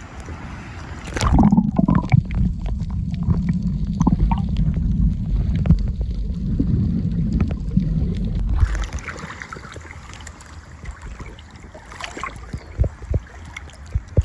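Water gurgling and sloshing around a snorkeller's camera. From about a second in there is a deep, muffled rumble with small knocks for about seven seconds, then a lighter wash of water with a few sharp splashes near the end.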